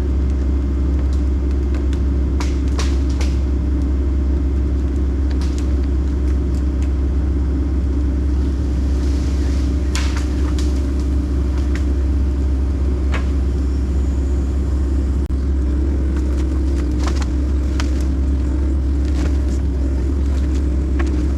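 Diesel engine of a Kobelco SK140 tracked excavator running steadily under work, a deep even rumble, with scattered short clicks and knocks.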